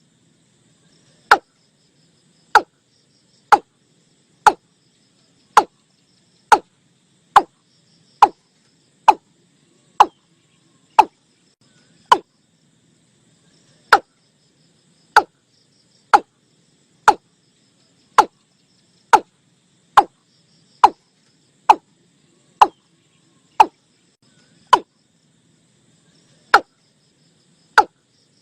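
Watercock calling: a steady series of short, hollow notes, each dropping quickly in pitch, about one a second with a couple of brief pauses. It is a lure call for drawing watercocks to a trap, with faint crickets behind it.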